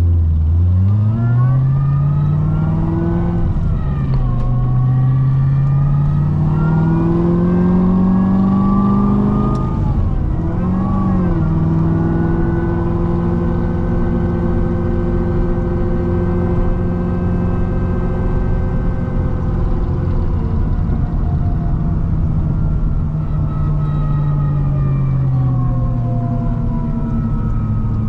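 Supercharged V8 of a C6 Corvette ZR1 with a Kong 2650 supercharger, pulling hard through the gears. The engine pitch climbs, drops at a shift about four seconds in, then climbs again to a second shift around ten seconds. After that it holds steady at speed and slowly eases off near the end.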